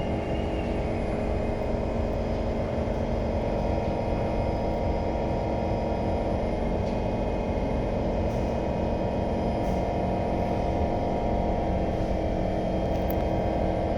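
C151 metro train running with a steady low rumble, heard from on board. A faint high whine fades out in the first half second.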